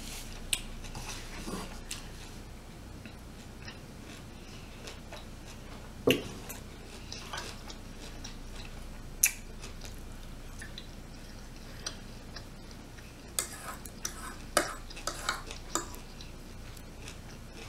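Close-miked chewing and mouth sounds of a person eating shrimp, broken by scattered sharp clicks, with a cluster of them near the end.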